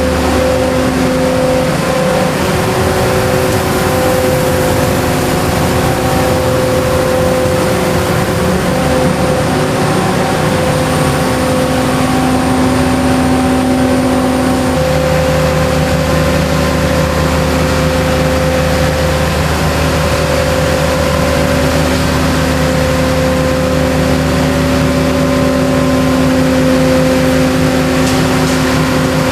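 Loud, steady running of a rail tunnel-cleaning train's machinery: engine hum under the rushing noise of its suction and washing equipment. The hum changes pitch slightly about halfway through.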